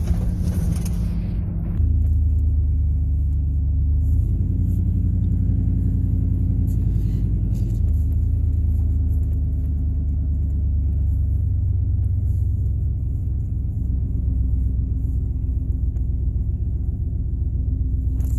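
Steady low rumble of a car being driven: engine and road noise, growing heavier about two seconds in and again near the middle.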